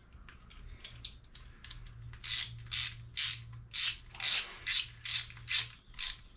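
Hand ratchet wrench being worked back and forth on an engine bolt. From about two seconds in it makes a regular run of short, rasping clicks, about two strokes a second.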